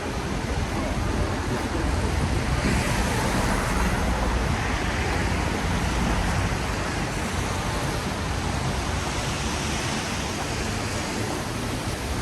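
Steady hiss of rain and traffic on a wet city street, with a vehicle's tyres swelling past on the wet road a few seconds in.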